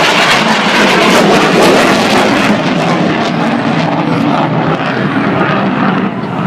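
Fixed-wing aircraft flying past at an air show, a loud roar. The high hiss fades after about two and a half seconds as it moves away.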